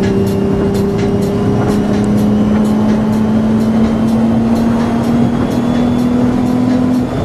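Supercharged Nissan 350Z's V6 engine heard from inside the cabin, droning steadily as the car accelerates, its pitch rising slowly; the drone breaks off briefly near the end.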